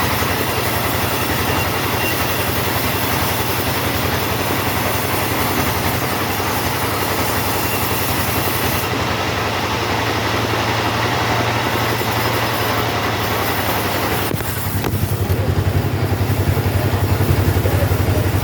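Two-stroke chainsaw running hard as it saws through teak wood. About 14 seconds in, the cutting noise drops away and the engine's fast low pulse comes forward.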